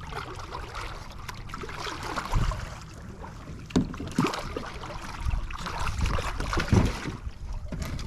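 Kayak on the water: wind rumbling on the microphone, with several sharp knocks and splashes against the hull.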